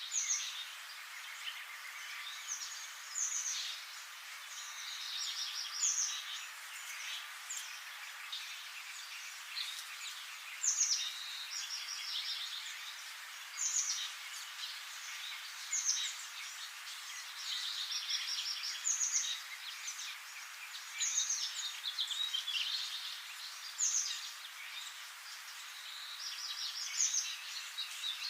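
Wild birds singing, short high phrases repeated every two to three seconds, over a steady background hiss.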